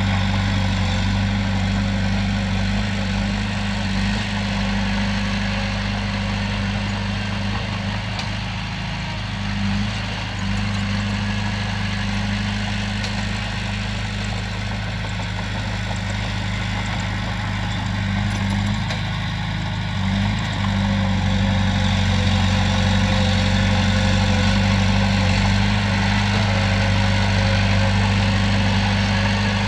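Heavy diesel engine running at a steady speed, a low even drone. It is briefly a little softer around ten seconds in and slightly louder from about twenty seconds on.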